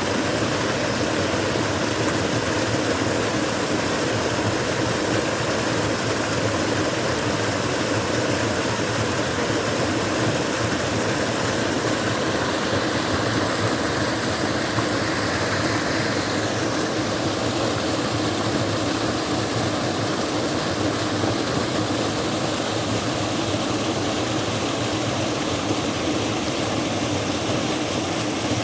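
Waterfall, water falling and rushing in a steady, unbroken noise.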